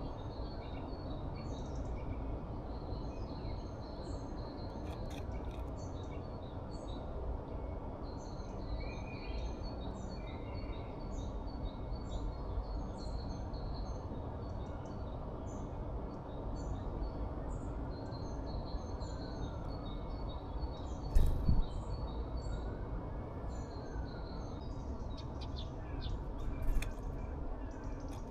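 Small songbirds chirping, many short high calls repeating throughout over a steady low background rumble. Two loud sharp knocks stand out, one about two-thirds through and another near the end.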